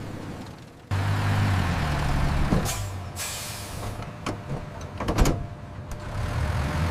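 Sound effects of a heavy vehicle's engine running with a low steady hum, cutting out briefly about a second in and coming back. A short hiss like an air brake follows about three seconds in, then several sharp clicks and knocks.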